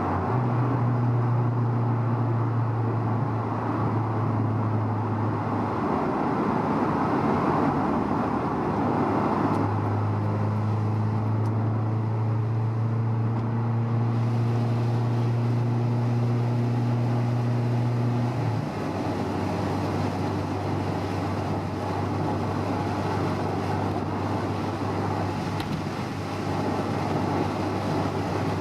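Honda S2000 on the move, heard from inside the car: steady road and tyre noise, with a low engine drone from its four-cylinder engine. The drone holds for the first few seconds and again for about nine seconds in the middle, then fades back into the road noise.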